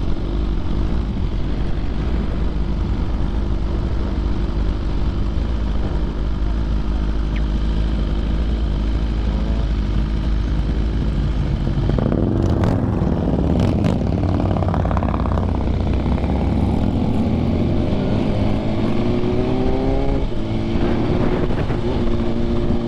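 BMW S1000RR sport bike with Arrow titanium headers and an SC Projects CRT silencer, its engine running steadily. The note changes about halfway through, then climbs twice near the end as the bike accelerates.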